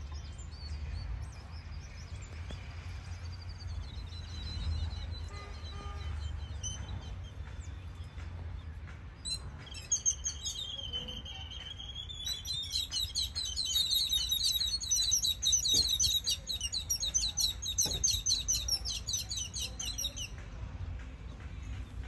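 Birds chirping in a fast, continuous chatter of high notes, starting about halfway through and stopping shortly before the end, over a low steady rumble.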